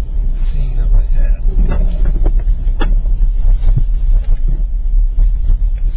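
Steady low rumble of a car moving along a road, with scattered knocks and clicks, the sharpest about three seconds in.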